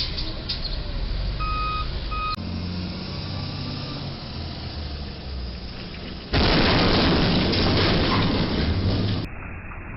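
Heavy truck engine and road noise, with a reversing alarm beeping twice about a second and a half in. Later the sound cuts suddenly to a much louder, noisy rumble for about three seconds before cutting again.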